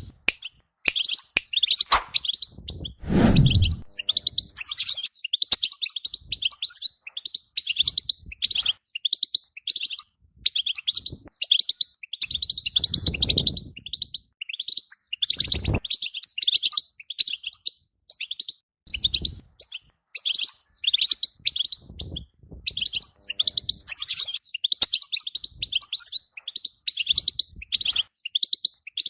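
European goldfinch singing a long, nearly unbroken run of rapid, liquid twittering phrases. A few low dull thuds or rustles break in, the plainest about three seconds in and another sharper one about midway.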